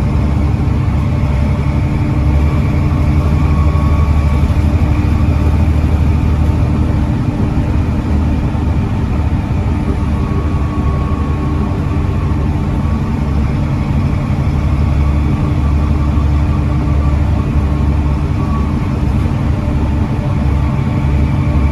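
Volvo B7TL double-decker bus's Volvo D7C 7.3-litre diesel engine running at a steady speed, its pitch holding level.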